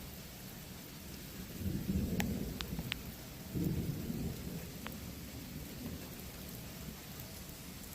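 Thunder rumbling from a nearby thunderstorm in two low swells, the first about a second and a half in and the second about three and a half seconds in. Rain hisses underneath, with a few sharp drop ticks.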